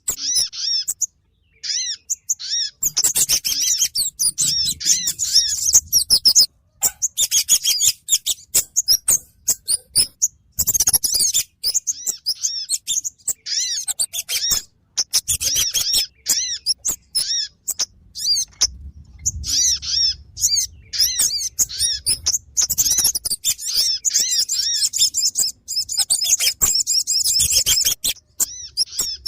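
Bird-luring recording of kemade and sogon calls: fast, high-pitched chirping and chattering in dense bursts, broken by short pauses about a second in and again near the seven-second mark.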